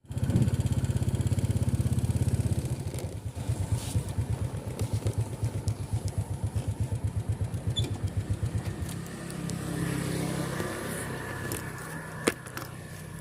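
Motorcycle engine running close by: loud for the first couple of seconds, then a throbbing idle of about four pulses a second that settles lower and steadier about nine seconds in. A single sharp click comes near the end.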